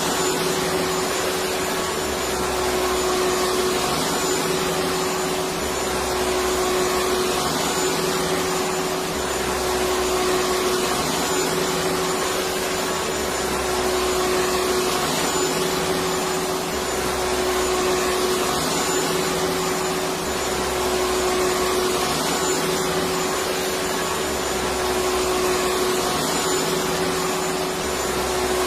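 Electric vacuum cleaner running steadily: a constant rushing noise with a steady motor whine, and a low hum that swells and fades about every two seconds.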